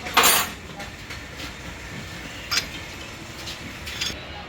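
A short, loud hissing burst a fraction of a second in, followed by a few scattered sharp clicks and knocks of tools and parts being handled during a shock absorber repair.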